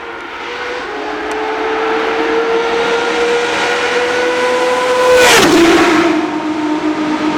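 Aston Martin AMR-One LMP1 race car's turbocharged inline-six passing at speed. Its engine note climbs steadily as it approaches, then drops sharply in pitch as it goes by a little after five seconds in, and carries on at a lower note as it pulls away.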